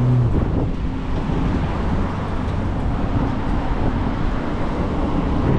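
Harley-Davidson V-twin motorcycle engine running while riding, its low drone shifting in pitch a few times, with wind rumbling on the microphone.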